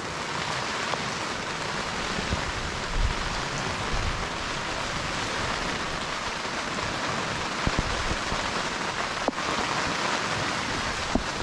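Steady heavy rain pattering on a canvas swag and tarp shelter, with a few soft knocks.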